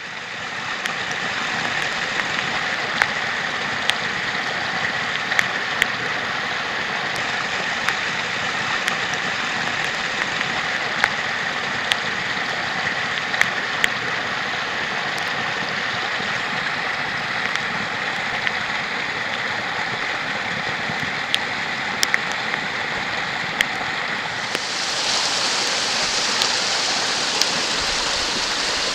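Rain-swollen creek rushing, a steady wash of flowing water with occasional sharp ticks. About 25 seconds in the rush grows brighter and a little louder.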